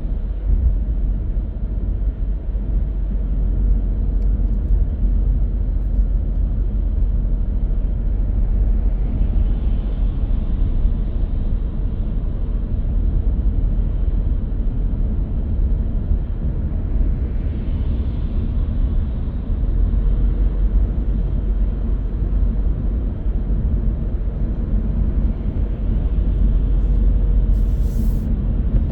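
Steady low road rumble of a car driving, with the hiss swelling twice and a brief click near the end.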